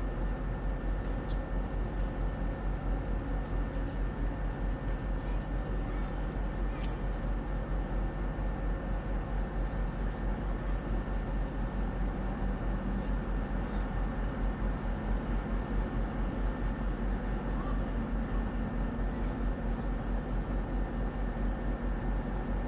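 Steady low mechanical drone of a running train, pulsing quickly and evenly, with faint regular high ticks about once a second.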